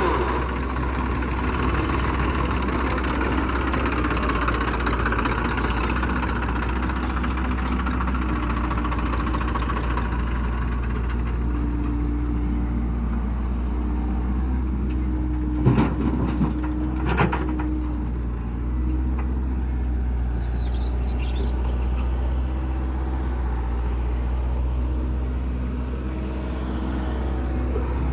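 Tractor diesel engine running steadily under load, with a few sharp knocks a little past the middle.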